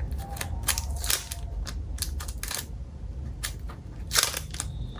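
Metal clicks of a 1978 Zippo lighter being handled, its hinged lid flipping open and snapping shut. The clicks are irregular, about one every half second to second, with the loudest about four seconds in.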